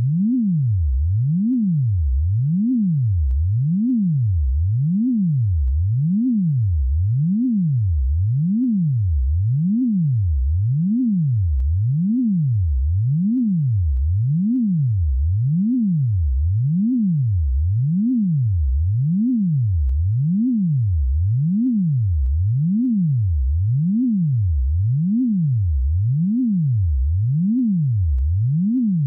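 Synthesized single tone gliding steadily up and down in pitch, low to high and back about once every second and a bit, over and over, made to imitate a motorcycle engine being revved and let off.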